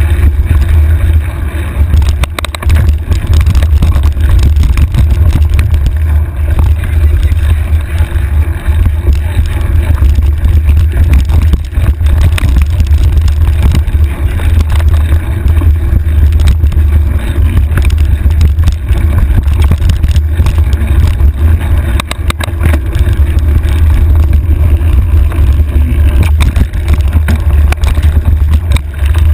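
Heavy, loud wind rumble on a handlebar-mounted camera's microphone while the bike runs fast down a rough trail, with frequent clicks and rattles from the bike over rocks and bumps.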